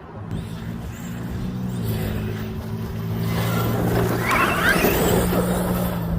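Arrma Outcast 8S RC truck's brushless motor whining as the truck is driven, getting louder through the middle with a rising whine about four seconds in, over a steady low hum.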